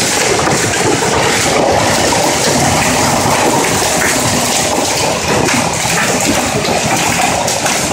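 Large hailstones pelting down in a heavy storm: a loud, dense, steady clatter of countless strikes.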